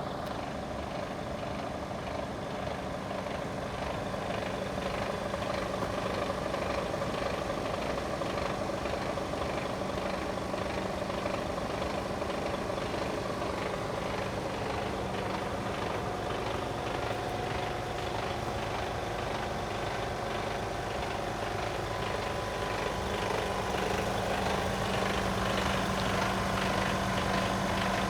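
Mercedes Actros 1840 tractor unit's 400 bhp Euro 6 diesel engine idling steadily, its tone shifting slightly and growing a little louder a few times.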